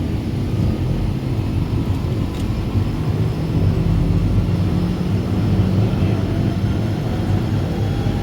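Aircraft engine running steadily: a low rumble with a steady hum.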